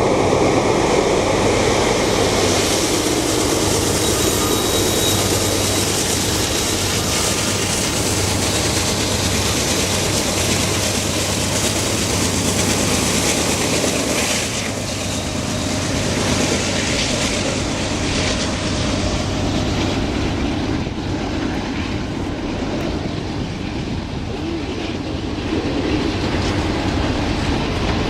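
Train hauled by diesel locomotives running past at speed: a steady engine drone under loud wheel-on-rail rushing and clatter, the high rushing noise thinning out in the last third.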